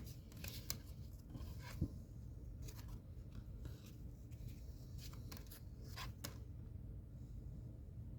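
Faint handling of cardboard trading cards: scattered light clicks, taps and scrapes as the cards are shuffled and touched, with a small knock about two seconds in.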